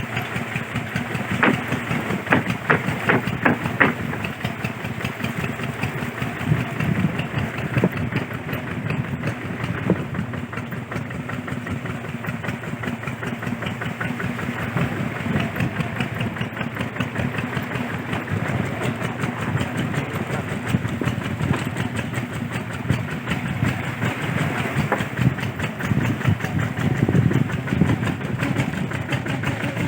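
Kubota RT140 single-cylinder diesel engine running steadily, with a few sharper knocks in the first few seconds.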